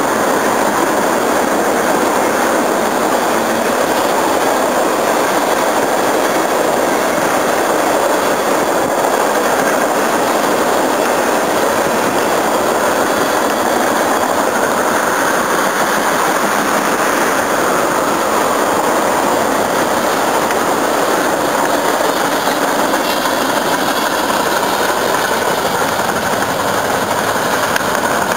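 A train rolling past on the track, making a steady noise of wheels on rails that holds throughout.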